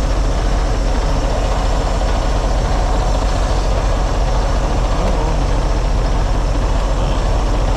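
Semi truck's diesel engine idling steadily just after a jump start, with a strong low hum.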